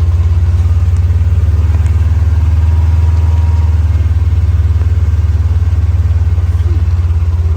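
An engine idling steadily, a loud low pulsing hum that holds even throughout.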